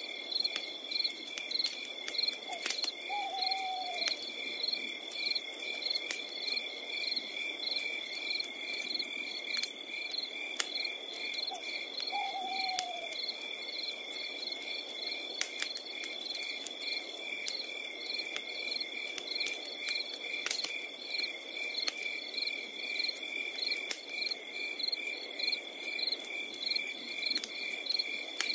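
Crickets chirping steadily at about two chirps a second over a soft hiss of night ambience. Twice, about three and twelve seconds in, a short call slides down in pitch. A few faint clicks are scattered through it.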